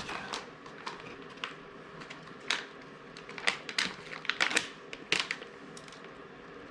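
Irregular sharp crinkles and clicks of packaging being opened and handled, with a cluster of them in the middle.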